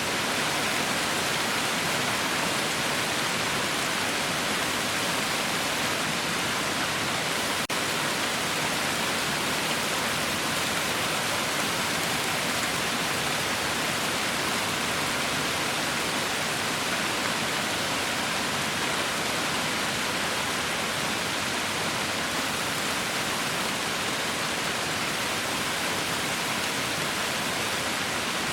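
Heavy rain falling in a steady, even hiss with no letup. There is one brief click about eight seconds in.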